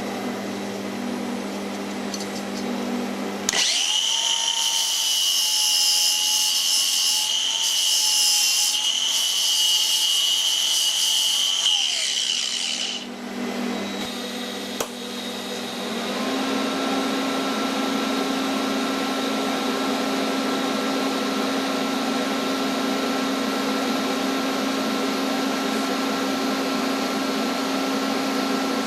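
Electric power tools running in a metalworking shop. First a steady hum, then a high-pitched tool with a whine runs for about nine seconds, then a lower, steady machine sound carries on.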